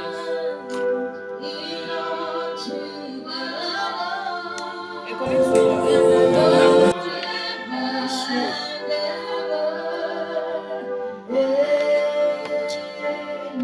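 Worship music: voices singing held, flowing lines. A louder, fuller passage comes about five seconds in and lasts about a second and a half.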